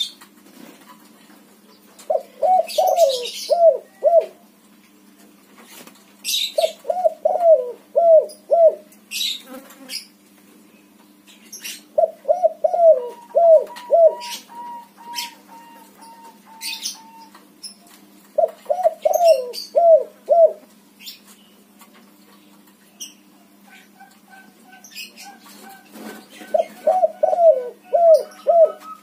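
White spotted dove (tekukur) cooing: a short phrase of several coo notes repeated five times, about every five to six seconds. Sharp clicks and a steady low hum lie beneath.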